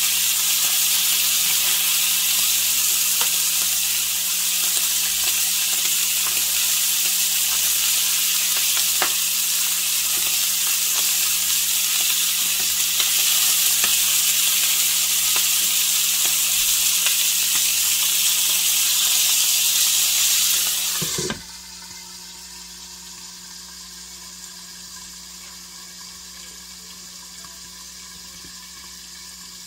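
Bacon-wrapped steak bites sizzling in a frying pan, with a few light clicks of metal tongs as the pieces are turned. About two-thirds of the way through, a glass lid clanks onto the pan and the sizzle drops to a much quieter, muffled hiss under the lid.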